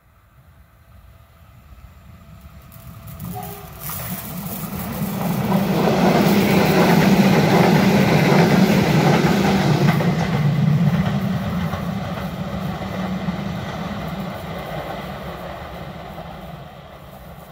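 A train passing close by on the rails: its rumble grows steadily, is loudest through the middle, then fades as it moves away.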